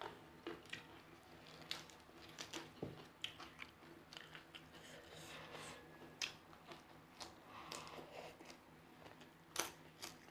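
A person chewing and biting raw food by mouth, in a run of small crunchy clicks and wet chewing sounds, including crisp raw lettuce leaves. The sounds are quiet and close.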